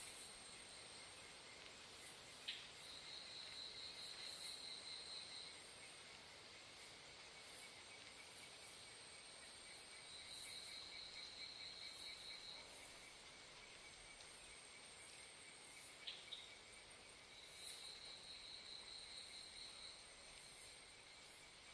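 Faint chorus of insects trilling: one steady pulsed trill runs on, while a higher trill comes in bouts of about two and a half seconds, three times. Two faint clicks, a few seconds in and again past the middle.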